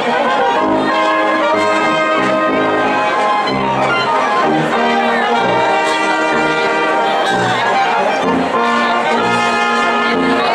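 Brass music: trumpets and trombones playing a tune with sustained notes over a low bass line in a steady beat.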